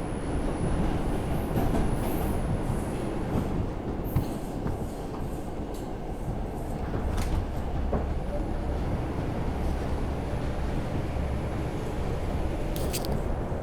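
R142 subway car running between stations, heard from inside the car: a steady rumble of wheels on rail with scattered clicks and a few brief high squeaks.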